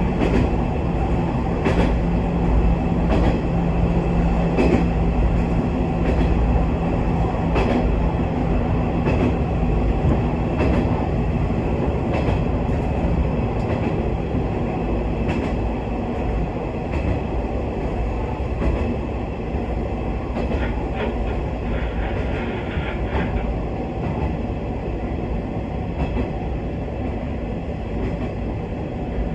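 Aizu Railway diesel railcar running, heard from inside the car: a steady low engine and running drone with irregular clicks of the wheels over rail joints. There is a brief higher squeal a little after two-thirds of the way through, and the sound eases slightly toward the end as the train nears the station.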